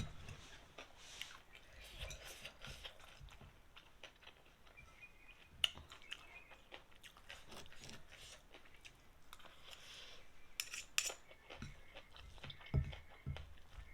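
A person chewing and eating noodles with fish paste, soft mouth sounds with scattered light clicks of utensils, a sharper click about halfway through and a few more near the end.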